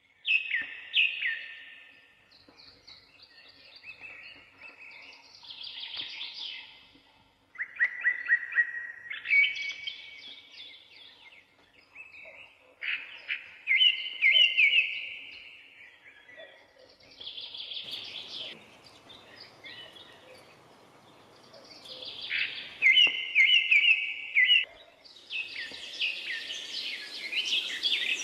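Small songbirds singing: short phrases of quick chirps come every few seconds, with quieter pauses between them, and the song grows busier near the end.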